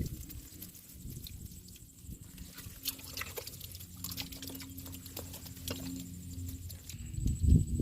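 Water dripping and sloshing in shallow floodwater, with scattered small clicks and a louder splash near the end.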